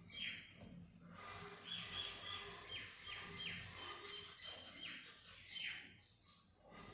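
Birds chirping: a run of short, quick downward-sliding chirps, several close together about two seconds in and more scattered through the rest.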